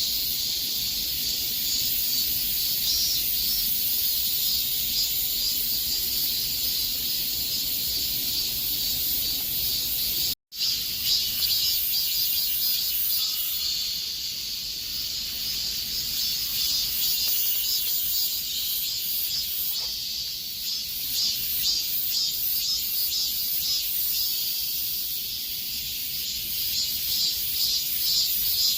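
Cicadas singing in chorus, a dense, steady high buzz that turns pulsing in the second half. The sound cuts out completely for a split second about ten seconds in.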